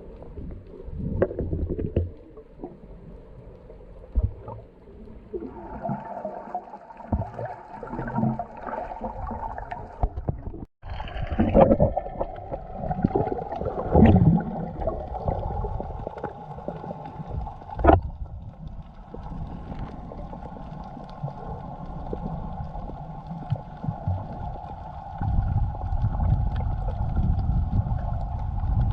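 Boat engine running with water splashing and gurgling against the hull, and a few knocks.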